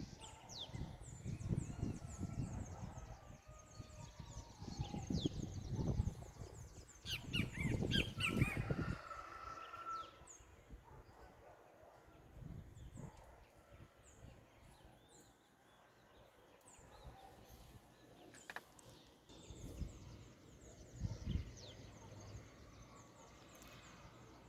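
Small birds chirping at dawn: many short, high chirps repeating throughout. Under them a low rumbling background noise comes and goes for the first ten seconds or so, then falls away.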